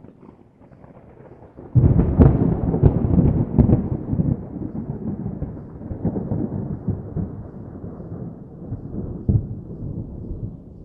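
Thunder: a low rumble, then a sudden loud crackling clap about two seconds in, followed by a long rolling rumble that slowly fades.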